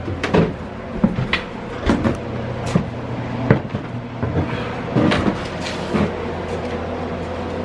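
Irregular knocks and clatters, about nine over six seconds, from old drain pipe and demolition debris being handled. A steady low hum runs underneath.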